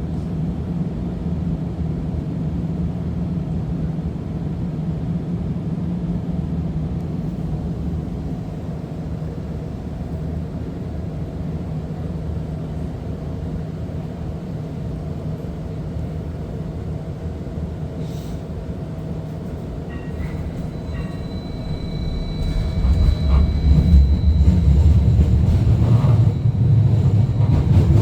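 Seattle First Hill Streetcar in motion, heard from inside the car: a steady low rumble and hum of the running streetcar. About two-thirds of the way in, the rumble grows louder and a faint high steady whine joins it.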